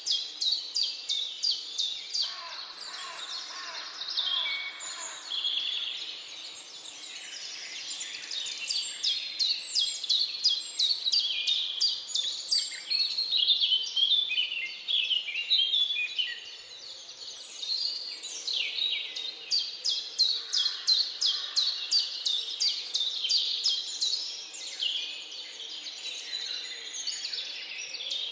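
Woodland birds singing, several at once, with long runs of rapid, evenly repeated high chirps.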